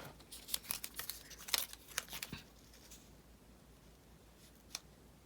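X-Acto craft knife scratching and clicking against washi tape on a paper planner page: a quick run of short, crisp scrapes over the first three seconds, then a single click near the end.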